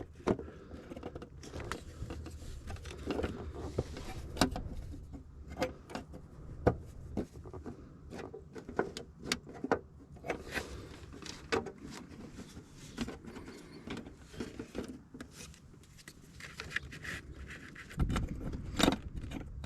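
Scattered light clicks, clinks and scrapes of metal parts being handled and fitted: a license-plate divider and angle-iron bracket being lined up against bolt holes in the engine bay.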